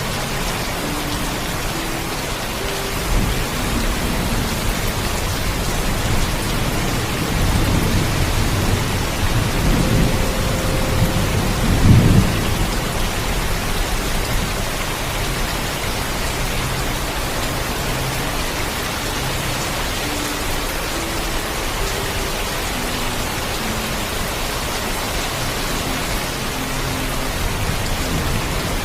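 Heavy, steady rain falling, with a roll of thunder that builds from about a quarter of the way in and peaks near the middle before fading.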